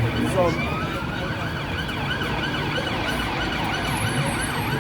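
Emergency vehicle siren sounding in fast yelp mode: a rising-and-falling wail that repeats about three times a second, over a low traffic rumble.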